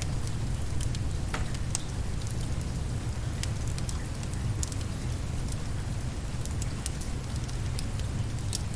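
Steady rain with a low rumble beneath it, and a wood fire crackling with many small sharp pops scattered throughout.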